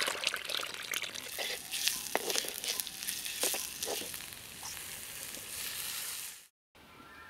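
Onions and green chillies sizzling in hot oil in a clay pot, with the clicks and scrapes of a spoon stirring. The sizzle cuts off suddenly about six and a half seconds in.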